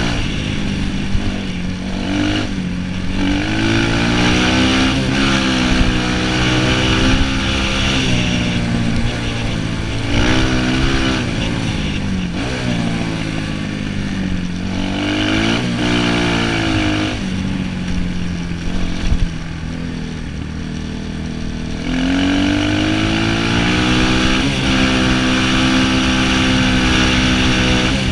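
Orion 250cc dirt bike engine revving hard and dropping back again and again as it is ridden, the pitch climbing steeply and falling in quick cycles, then climbing and holding high near the end.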